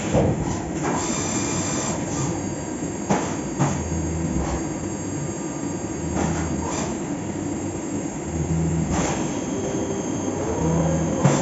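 Fagima Jazz M 5-axis CNC milling machine cutting metal: a steady grinding machining noise, with a low hum that swells and fades several times and a few sharp clicks.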